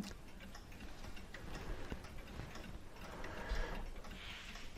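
A mechanical clock ticking steadily in the background. Over it come small clicks and light scraping of steel clock parts being handled as a rack hook is worked off a chiming clock movement, with a sharp click at the very start.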